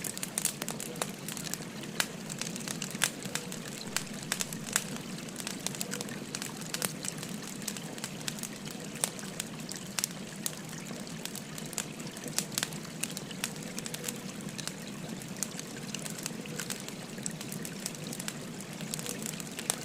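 Wood fire crackling with frequent sharp, irregular pops, over the steady sound of a flowing river.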